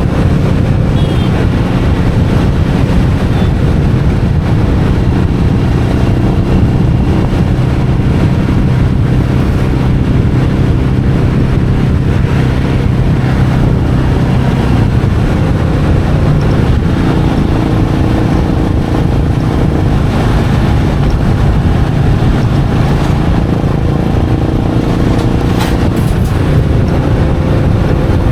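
Royal Enfield Meteor 350's single-cylinder engine running under way, with a steady engine note that shifts in pitch about halfway through.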